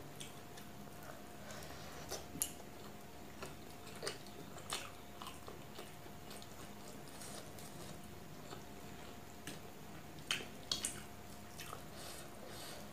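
Close-miked eating of chicken curry: chewing with scattered short wet clicks and smacks, the loudest clusters about two seconds in and again near ten seconds, while fingers work the curry on a steel plate.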